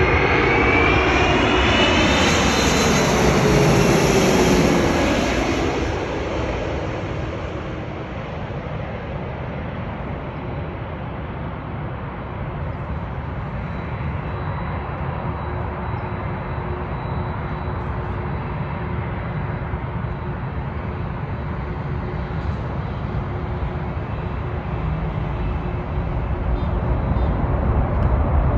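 Airbus A330-300's twin Pratt & Whitney PW4000 turbofans passing close: the engine whine drops in pitch over the first few seconds as the jet goes by. It then settles into a steady, quieter roar that swells again near the end.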